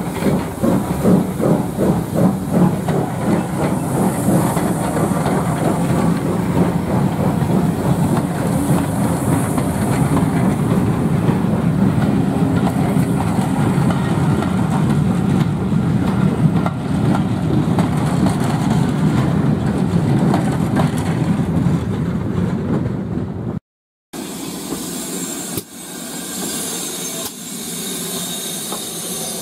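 Steam train running, the locomotive's exhaust beats mixed with the wheels of the carriages clattering on the rails. Near the end it cuts off abruptly and gives way to a lighter, steady hissing sound.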